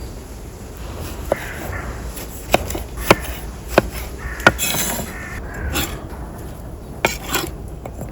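Camp cookware and utensils being handled: about six sharp clinks and knocks spread over several seconds, with rubbing and rustling between them.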